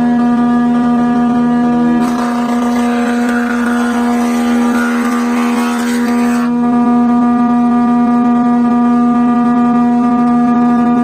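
A woodworking machine's electric motor running with a steady hum. From about two seconds in, a rougher cutting noise joins it for about four seconds and then cuts off suddenly, as when a piece of wood is fed through.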